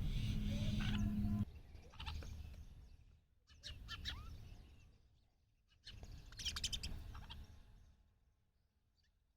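Small bird chirping in three short groups of quick, high chirps, each group starting abruptly, after a steady low hum that cuts off about a second and a half in.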